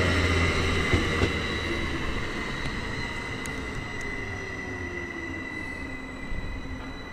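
Train moving through a station, its rumble fading away, with a thin high squeal that slowly falls in pitch. A couple of light knocks about a second in.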